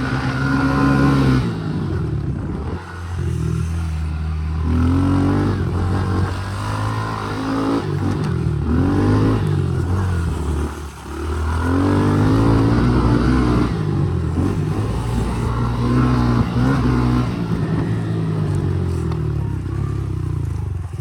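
Small petrol dirt bike engine revving up and backing off again and again as it is ridden hard around a dirt track, its pitch rising and falling every couple of seconds.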